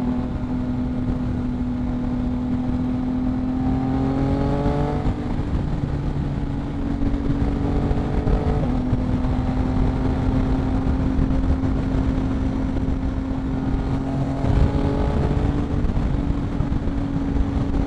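2022 Yamaha MT-09's 890 cc three-cylinder engine through a Two Brothers exhaust, pulling steadily at freeway speed over wind and road noise. Its note rises briefly about four seconds in, again around eight seconds, and again near fifteen seconds.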